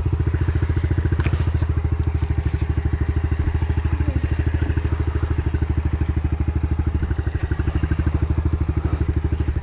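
Single-cylinder off-road engine idling steadily, an even, unchanging run of firing pulses with a few faint clicks over it.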